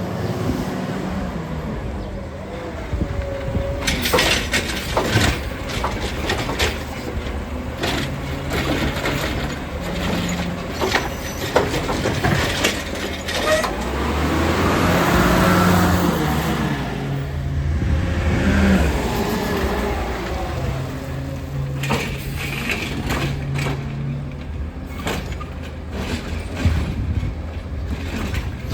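Heil Rapid Rail automated side-loader garbage truck at work: its diesel engine revs up and down in repeated steps while it runs the hydraulic arm, with many sharp clanks and knocks and a louder rushing surge about halfway through.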